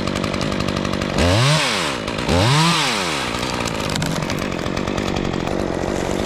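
Gas chainsaw running at idle, revved up and back down twice in quick succession about a second and two and a half seconds in.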